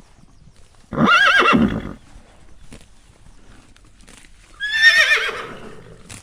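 A horse whinnying twice: a loud call lasting about a second, then a second, quavering call near the end.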